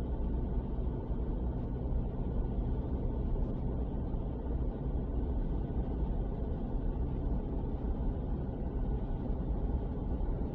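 Steady low rumble of a car being driven, engine and road noise with little high-pitched sound in it.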